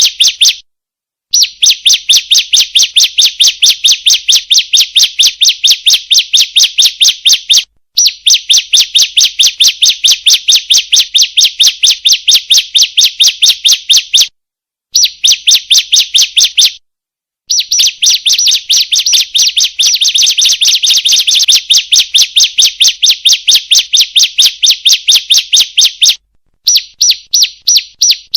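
Female bar-winged prinia (ciblek) calling: a fast run of sharp, evenly repeated chipping notes that goes on for several seconds at a time, breaking off briefly about five times. It is the female's call, used as a lure to get a kept male to answer and sing.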